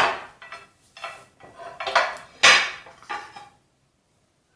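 Utensil knocking and scraping against a pot and plate as thick peda dough is turned out onto the plate: a run of clatters over about three and a half seconds, the loudest about two and a half seconds in.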